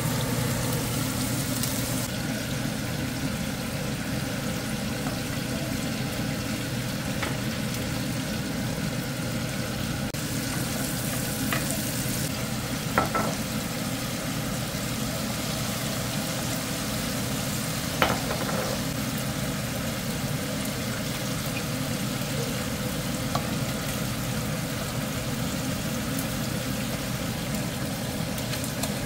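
Hot oil sizzling steadily in a pan as fish fries and then pork and bok choy cook, over a steady low hum, with two sharp clicks partway through.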